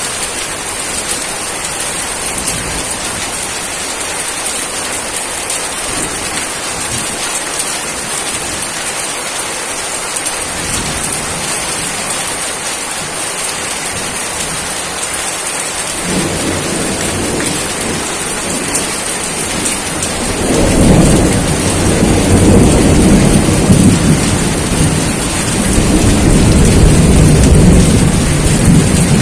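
Steady heavy rain hissing, joined past the halfway mark by a rumble of thunder that swells into a long, loud roll through the last several seconds.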